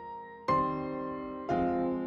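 Background piano music: slow, soft chords struck about once a second, each ringing and fading before the next.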